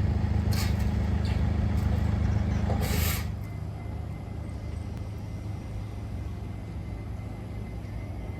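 Road traffic: a vehicle's engine running nearby with a low steady rumble, a short hiss about three seconds in, then only a quieter steady traffic hum.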